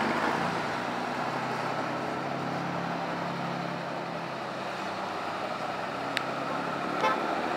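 Truck engine running steadily amid street traffic noise, with a sharp click about six seconds in and a short horn toot about a second later.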